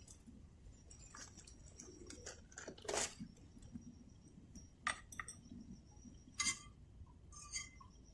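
Quiet eating sounds: chewing with a few sharp clinks of tableware, the loudest about three, five and six and a half seconds in, over faint high-pitched insect chirping.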